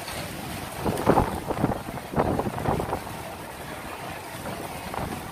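Strong wind buffeting the microphone in irregular low rumbling gusts, strongest in the first half, over a steady rushing background.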